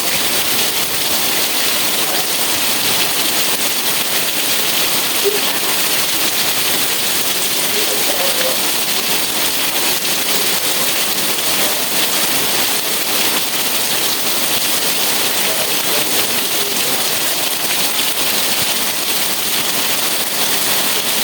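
Steady rain falling: an even, unbroken hiss with no pauses or changes.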